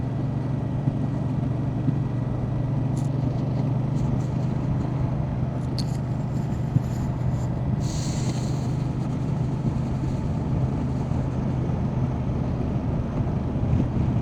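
Motorcycle engine running at a steady cruising speed, an even low drone over road and wind noise, with a brief hiss about halfway through.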